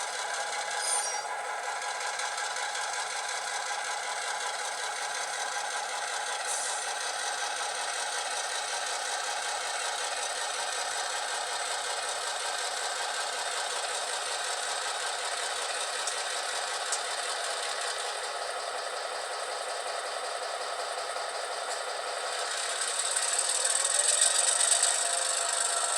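Diesel switcher engine sound from an ESU LokSound v5 decoder, played through small sugar-cube speakers in an HO-scale Atlas MP15DC model as it runs. The sound is steady and thin, with no deep bass. It grows louder and brighter a few seconds before the end.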